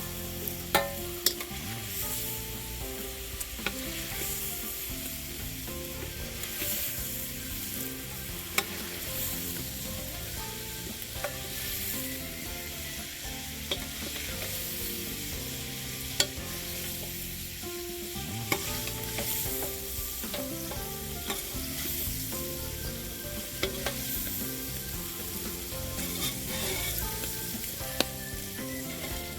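Calamari and giant squid pieces sizzling in a hot frying pan while being stirred, with a few sharp clicks of a utensil against the pan.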